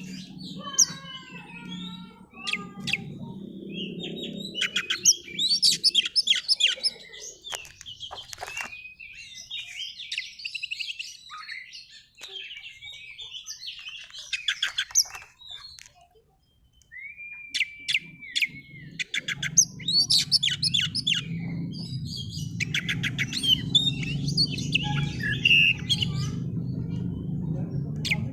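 Oriental magpie-robin (kacer) singing a fast, varied song of chirps, whistles and trills in repeated bursts, pausing briefly a little past halfway. A low steady rumble runs underneath for much of it.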